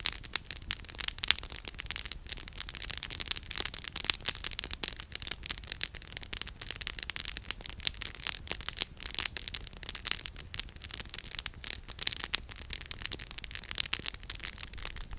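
Campfire firewood crackling and popping: a dense, irregular run of sharp snaps, some louder than others, over a faint low rumble.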